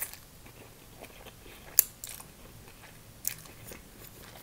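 A person chewing a mouthful of glass noodles with chicken, with a few sharp clicks, the loudest about two seconds in.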